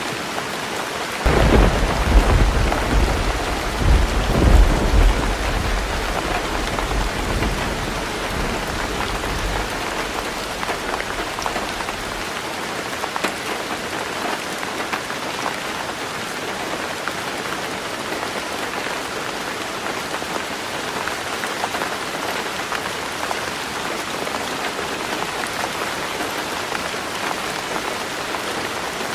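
Heavy rain drumming steadily on a roof. About a second in, a clap of thunder breaks out, rolls loudly twice and rumbles away over the next ten seconds.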